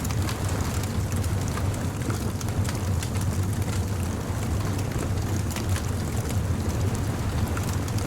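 Bonfire crackling, with many small sharp pops, over a steady low rumble of surf on a beach.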